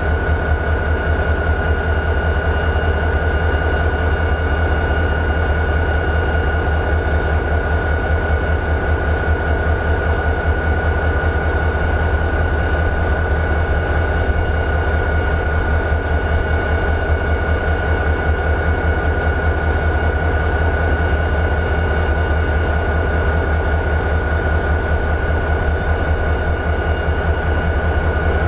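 EMD 16-645E3 turbocharged V16 diesel of a CSX GP40-2 locomotive idling steadily: a low, even rhythmic throb with a constant high whine over it.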